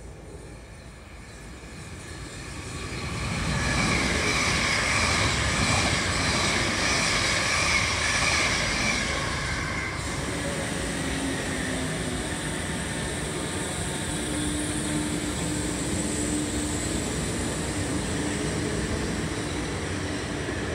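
South Western Railway suburban electric multiple unit approaching and running past the platform. The train noise builds over the first few seconds to a loud rumble with a steady high whine, then settles into a lower, even running sound with a faint low hum.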